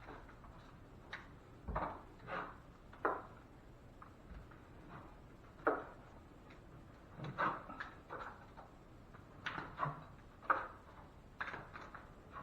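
Drywall knife scraping as joint compound is spread and pulled tight in a second coat: a dozen or so short, irregular strokes and taps, fairly quiet.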